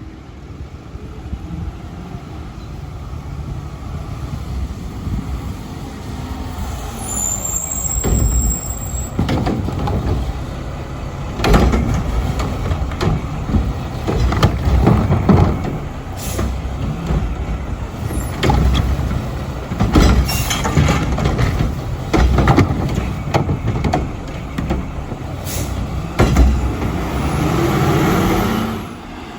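Mack LR garbage truck with a Curotto Can cart arm working its route: the diesel engine runs and revs with a low rumble, with repeated sharp metal clanks and bangs from about eight seconds in. The engine swells near the end, then drops off suddenly.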